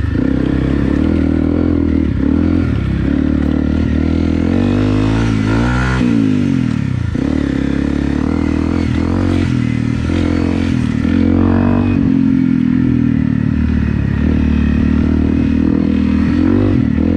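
Honda CRF250 Rally's single-cylinder four-stroke engine running under way, with engine speed dropping off and then picking back up about six to seven seconds in.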